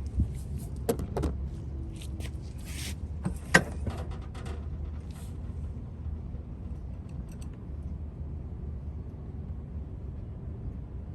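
A handful of sharp metal clinks and knocks from a jack and tools being handled, the loudest about three and a half seconds in, over a steady low rumble.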